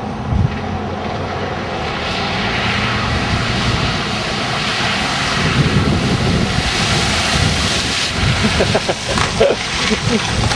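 Car driving on the highway: steady road and engine rumble with wind rushing over the microphone, the hiss swelling through the middle.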